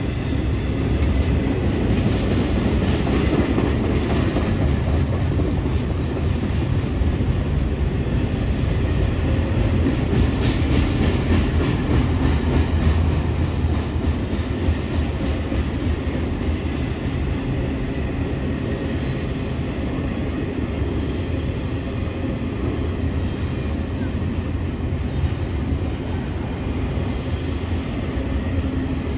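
Train cars rolling past: a steady, continuous rumble of steel wheels on rail, with rhythmic clickety-clack from the wheels.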